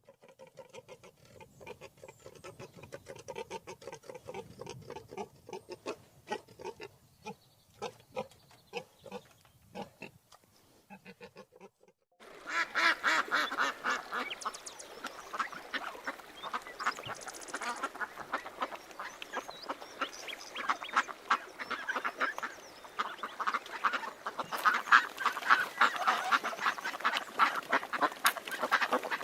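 Ducks quacking in rapid, repeated calls. About twelve seconds in, it cuts to a louder, denser chorus of many birds calling together.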